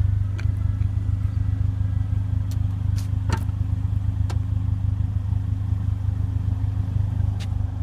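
A car engine idling with a steady low hum, under a handful of sharp clicks and knocks, as the power liftgate closes.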